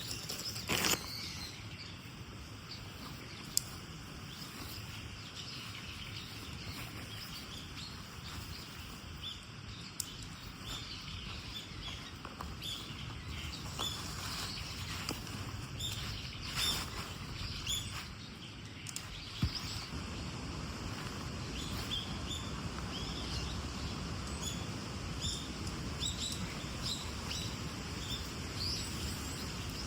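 Small birds chirping and calling repeatedly over a steady background hush, with a few sharp clicks or knocks now and then.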